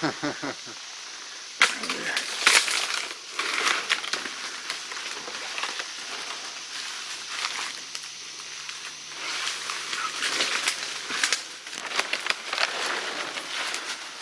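Footsteps pushing through wet undergrowth and leaf litter, with irregular crackling and snapping of twigs and vegetation underfoot.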